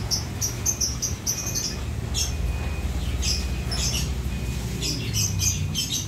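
Small birds chirping in quick runs of short, high notes, over a steady low hum.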